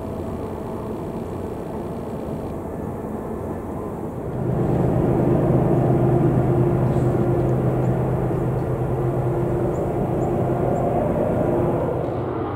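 Diesel freight locomotives running with a steady low rumble. It grows louder about four and a half seconds in, with a steady hum over the rumble, then eases near the end.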